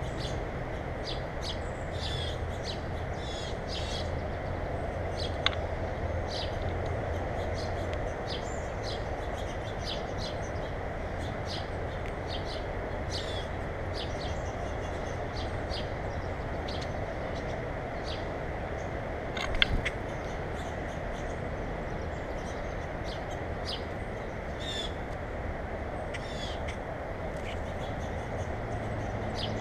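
Small birds at a feeder calling with short, scattered high chirps over a steady low background hum. There is a sharp click about five seconds in and a louder knock near the two-thirds mark.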